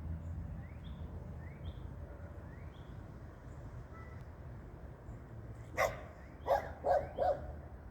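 A dog barking four times in quick succession, starting about six seconds in. Faint short rising chirps repeat about once a second before the barks.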